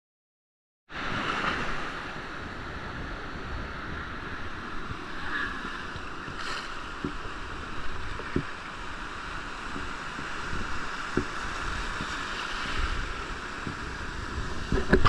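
Surf washing onto a beach, with wind buffeting the microphone; it starts abruptly about a second in and runs steadily.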